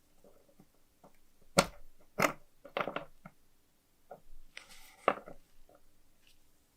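Clicks and knocks of small metal lighter parts being handled and worked by hand. There is a short scraping rub about two-thirds of the way through.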